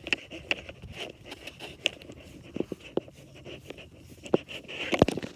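Irregular small clicks, taps and scrapes of handling and movement, with a louder knock about five seconds in.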